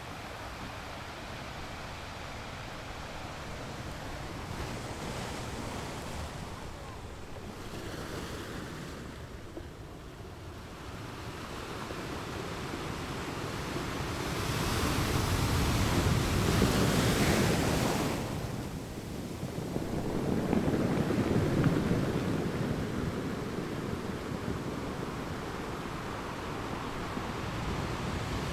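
Ocean waves breaking and washing up on a beach, a steady surf hiss that swells as two larger waves come in past the middle and then eases back.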